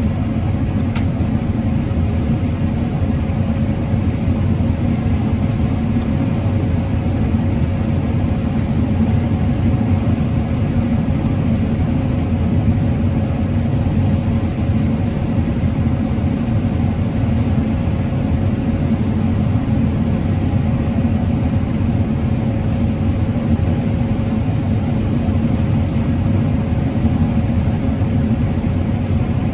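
Combine harvester running steadily while harvesting corn: a constant, unchanging low engine and machine drone with a steady hum over it. A single short click about a second in.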